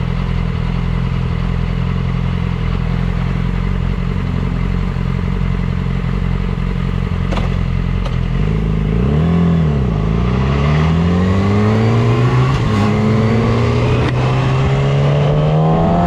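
Motorcycle engine running steadily at low revs, then blipped quickly up and down about nine seconds in, then accelerating with its pitch rising steadily.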